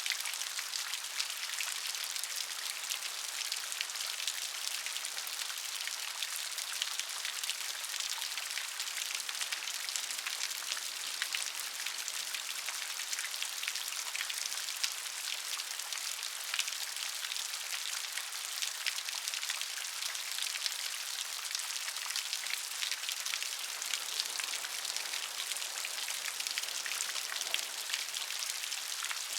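Steady rain, a dense even patter of many small drops hitting a surface.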